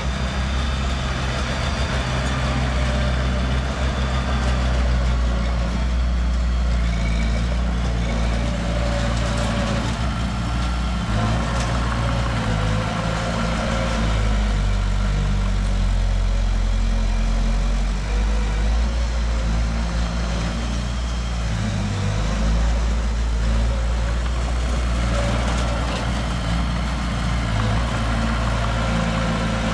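The diesel engine of a heavy earthmoving machine or dump truck running steadily at a low, even pitch.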